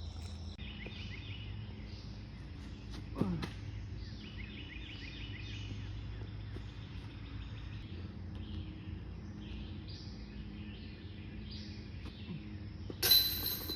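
Outdoor ambience of birds chirping with insects calling, a steady run of short repeated chirps. A brief falling swish comes at about three seconds, and near the end there is a loud, sharp noise just before the sound cuts off.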